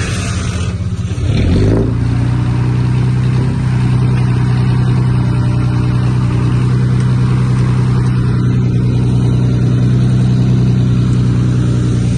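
Heavy diesel engine of earthmoving machinery revving up about two seconds in, then running steadily at high revs. A brief hiss at the very start.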